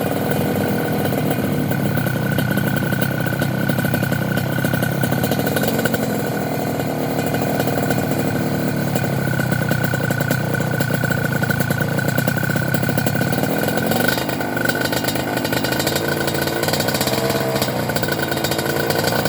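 Suzuki TS 125 two-stroke single-cylinder engine running through a full stainless aftermarket exhaust, idling with several brief revs that rise and fall back.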